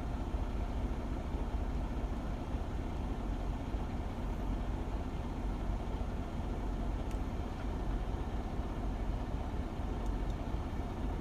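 Semi truck's diesel engine idling with a steady, even low rumble, heard from inside the cab.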